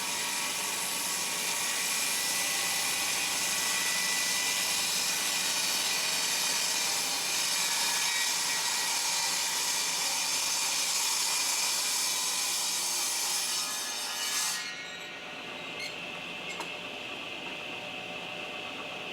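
Table saw ripping rough lumber lengthwise against the fence, the blade cutting steadily through the wood. About three-quarters of the way through, the cut ends abruptly and the saw runs on free with a quieter steady whine, with a couple of small knocks.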